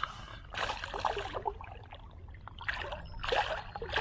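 Creek water splashing and trickling, with short bursts of splashing about a second in and again near the end.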